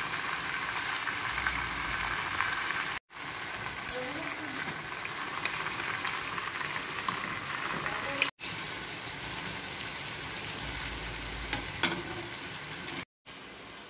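Brinjal pieces and ginger–green chilli paste sizzling in oil in a metal kadai, with the spatula scraping and stirring now and then and a couple of sharp clicks near the end. The sizzle breaks off for a moment three times.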